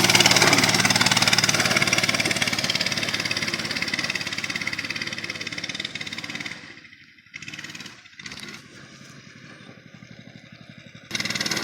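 Mini bike's small engine running at speed and fading steadily as it rides off; by about six seconds in it has faded to a faint distant drone. A brief louder sound comes near the end.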